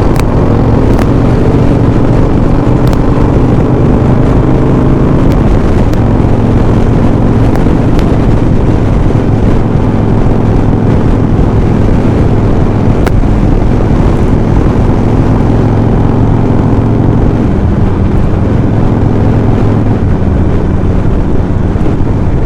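Harley-Davidson Sportster's V-twin engine running at a steady cruise, heard under heavy wind buffeting the microphone in a sandstorm. The engine holds an even pitch throughout, with no revving.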